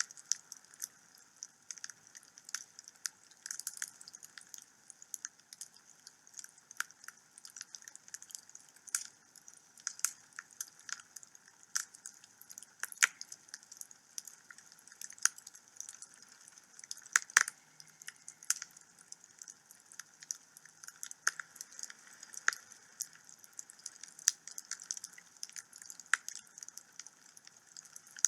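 Wood fire burning in a home fireplace: irregular crackles and sharp pops several times a second over a faint hiss.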